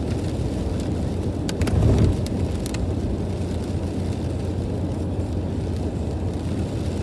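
Steady low rumble of a car driving on a rain-soaked road, heard from inside the cabin, with a few sharp clicks between about one and a half and three seconds in.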